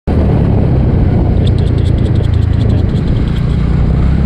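Motorcycle engine running on the move, with heavy wind rumble on the microphone. From about a second and a half in, a rapid light ticking of about ten clicks a second runs for around two seconds.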